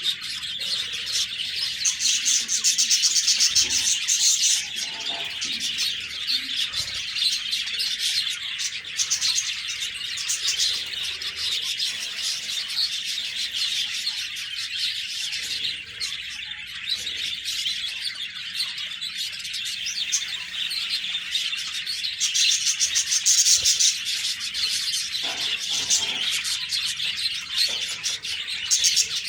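A group of budgerigars chattering and warbling without a break, with two louder spells of rapid high trilling, a few seconds in and again about three-quarters of the way through.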